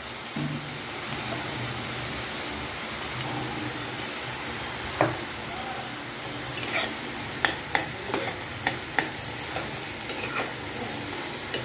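Mushrooms, corn and garlic-tomato paste frying with a steady sizzle in a wok while a spatula stirs them. From about five seconds in, the spatula knocks and scrapes against the pan in a run of sharp clicks.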